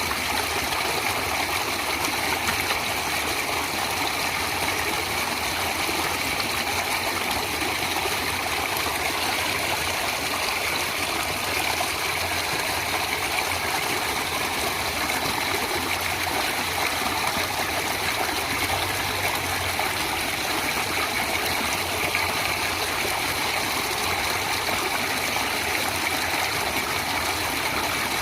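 Running water of a stream, flowing steadily and evenly without a break.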